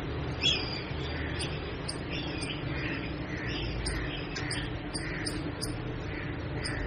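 Pet parrot calling in a run of short, repeated squawks, about two a second, with a sharper, louder call about half a second in.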